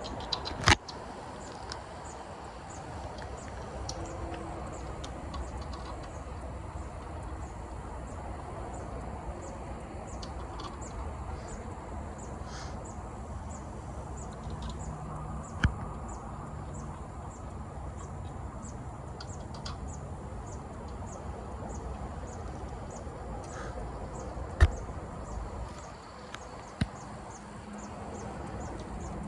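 Outdoor ambience: steady background noise with many short high chirps from birds or insects, broken by four sharp knocks, the loudest near the start and about 25 seconds in.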